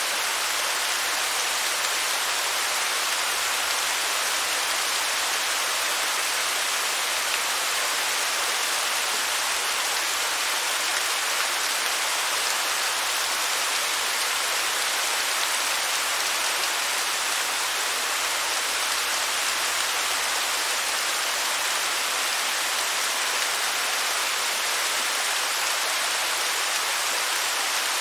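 Waterfall: water falling and splashing in a steady, unbroken hiss, mostly high with little low rumble.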